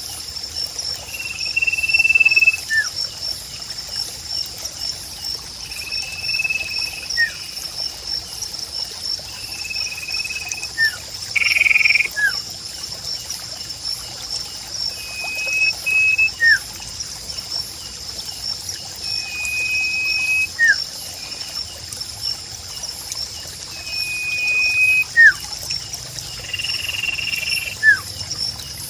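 Sirpu bird calls: a short, flat whistle followed by a quick falling note, repeated about every four seconds over a steady high insect trill and trickling water.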